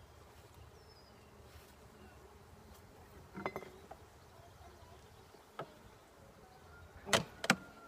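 Honeybees buzzing steadily around an opened hive, with a few sharp knocks: a pair about three and a half seconds in, one near six seconds, and the two loudest near the end.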